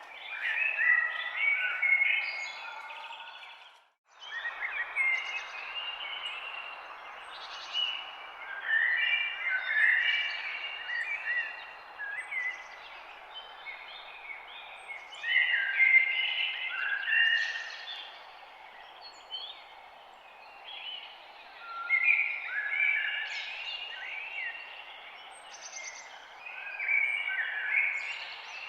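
Several songbirds chirping and singing together in overlapping bursts over a steady background hiss. The sound drops out briefly about four seconds in.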